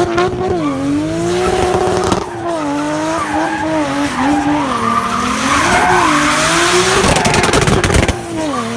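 Toyota Chaser JZX100's big-single-turbo 1JZ straight-six revving hard, its pitch swinging up and down, while the rear tyres spin and squeal through burnouts and donuts.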